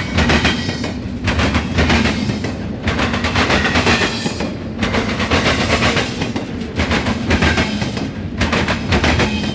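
Intermodal freight train's cars rolling past close by, steel wheels clattering and banging over the rail joints with a steady low rumble underneath. The clatter dips briefly about every two seconds, as each car goes by.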